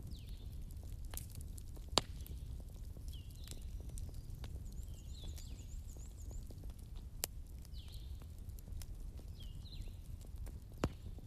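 Fireplace crackling, with scattered sharp pops, over a steady low rumble of storm wind. A short high chirp recurs every second or two.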